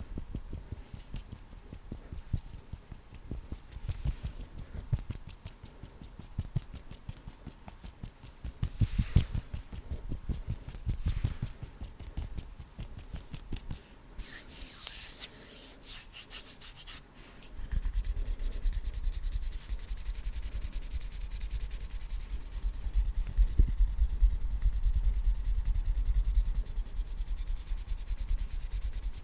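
Hands rubbing and fluttering in quick, fine strokes, changing a little over halfway through to a louder, steady rubbing.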